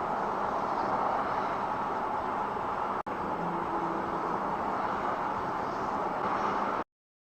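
Steady road and engine noise of a moving car as picked up by a dash cam. It breaks off for an instant about three seconds in, then cuts off abruptly near the end.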